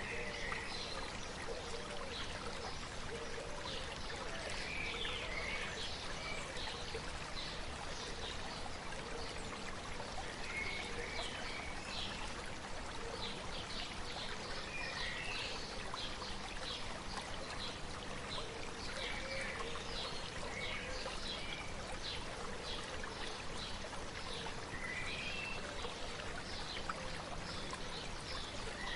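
A shallow river or stream babbling steadily, with short bird calls chirping every few seconds over it.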